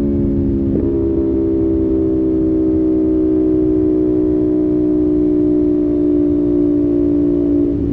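CFMOTO 450SS parallel-twin engine running steadily at expressway cruising speed, its note easing slightly lower, with a brief break in the note about a second in and another near the end. Wind and road rush sit underneath.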